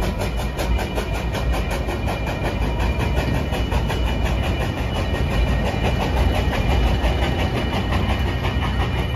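Narrow-gauge train cars rolling past a grade crossing: a steady rumble and clatter of wheels on rail. Over it, a crossing bell rings in quick, even strokes.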